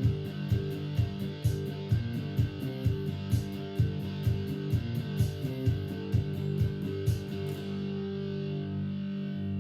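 Guitar music with a steady strummed rhythm, ending about eight seconds in on a chord left ringing.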